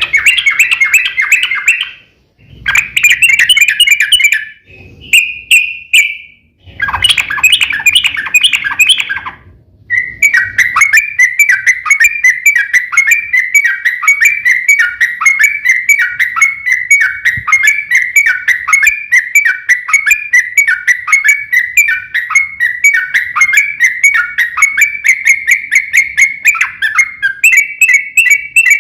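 Yellow-vented bulbul calling: several loud bursts of harsh chattering in the first ten seconds, then a long unbroken run of quickly repeated notes, the long rolling trill that keepers call 'ropel panjang'.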